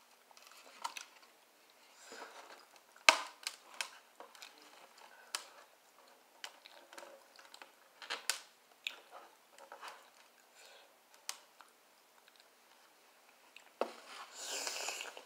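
Chewing and biting into fried barbecue ribs: crunchy bites and wet mouth smacks and clicks at uneven intervals, the sharpest about three seconds in. A longer hissing noise comes near the end.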